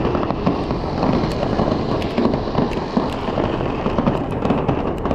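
Fireworks display going off: a dense run of sharp crackles and pops over a continuous low rumble of bursts.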